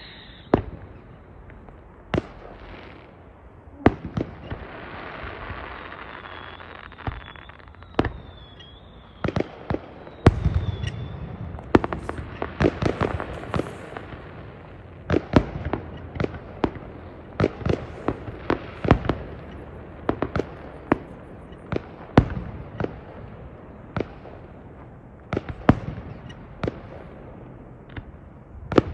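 Fireworks going off: irregular sharp bangs, a stretch of hiss about five seconds in, and a dense run of rapid crackling bangs near the middle.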